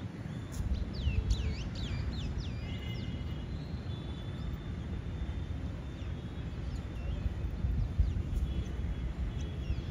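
Small birds chirping and whistling in short rising and falling notes, busiest in the first few seconds and then scattered, over a steady low rumble.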